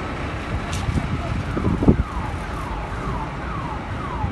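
Hurricane-force wind buffeting the microphone with a heavy rumble, strongest in a gust just before halfway. From about halfway, an electronic siren or alarm repeats a quick falling tone about one and a half times a second.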